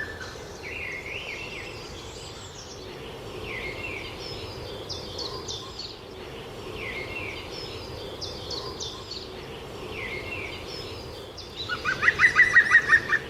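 Birds calling outdoors: short, falling chirped phrases repeat every second or two. Near the end comes a loud, fast run of about ten call notes.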